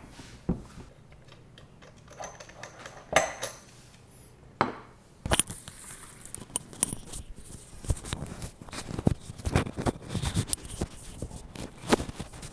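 Scattered metallic clinks, clicks and knocks of chainsaw parts and tools being handled during assembly, more frequent in the second half.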